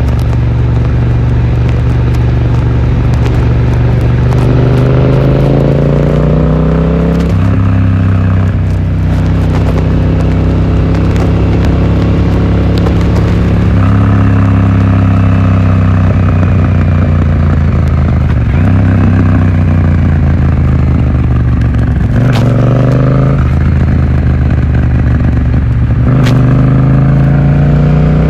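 Yamaha XSR700's 689 cc parallel-twin engine running through an aftermarket Akrapovic exhaust while riding, its note holding steady, then climbing as the throttle opens and dropping sharply at gear changes, several times over. Heard muffled from a phone in the rider's pocket, with fabric rustling and wind noise.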